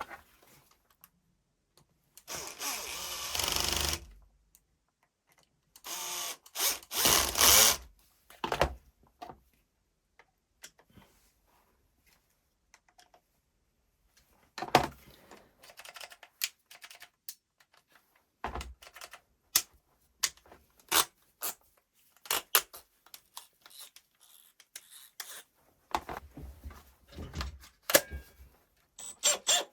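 Makita cordless drill motor and gearbox running in short bursts: one run of under two seconds, then several shorter ones, followed by scattered clicks and knocks of the tool being handled.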